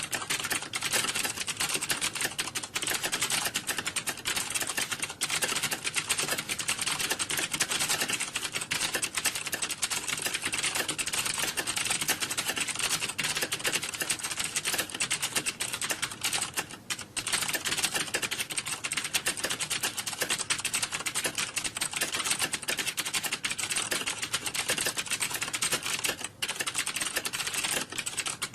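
Fast, continuous typing on a computer keyboard, a dense run of key clicks with two brief pauses, one past the middle and one near the end.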